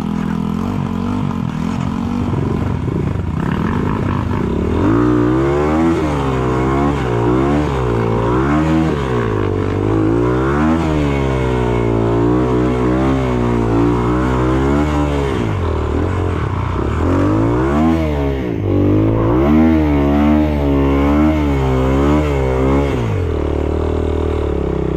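Off-road motorcycle engine revved up and down again and again, a rise and fall every second or two, running steadier at the start and near the end.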